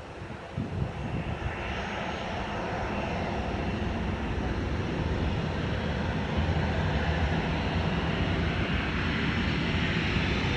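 Ryanair Boeing 737 jet engines at takeoff power, the noise building steadily as the airliner rolls down the runway and climbs out.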